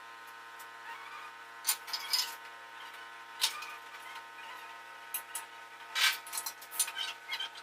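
Sharp metallic clicks and clinks of tools and engine parts being handled, in several irregular clusters, over a steady background hum.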